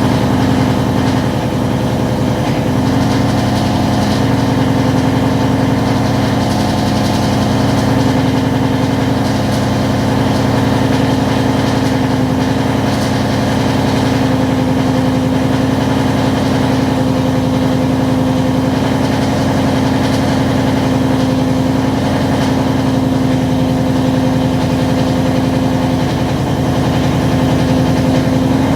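2017 Ford Mustang GT's 5.0-litre V8 idling steadily through a straight-piped exhaust with long-tube headers and no catalytic converters, mufflers or resonators.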